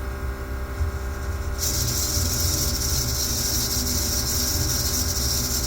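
Steady low machinery drone with a constant hum. About a second and a half in, a loud steady high hiss of rushing flow starts suddenly and carries on over the drone.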